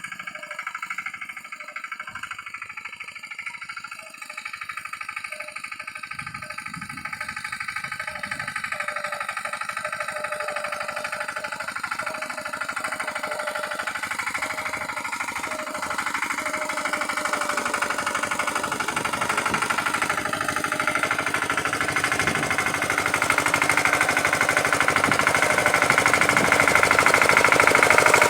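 Pasquali 946 tractor's Lombardini diesel engine running with a fast, knocking clatter, growing steadily louder.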